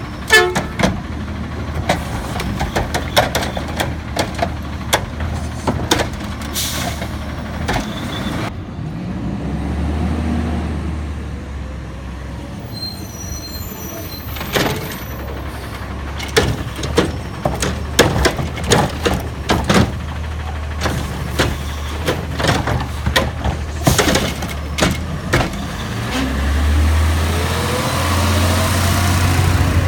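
Autocar ACX garbage truck with a McNeilus Pacific front-loader body and Curotto-Can arm working a yard-waste pickup: the diesel engine runs steadily and revs up twice as the hydraulics lift, with many sharp clanks and knocks of bins and the can, and a brief high whistle about halfway through.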